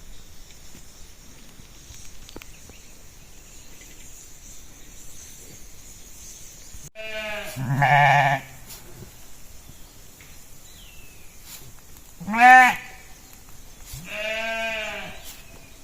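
Sheep bleating: three separate bleats, the first long and quavering about seven seconds in, a short loud one near twelve seconds, and a third soon after.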